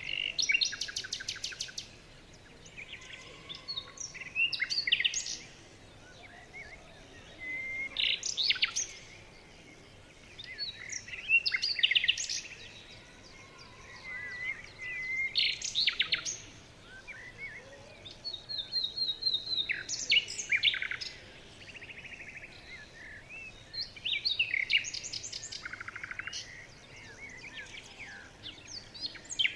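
Songbirds singing: short, high, rapid trilled song phrases every three to four seconds, with quieter pauses between them.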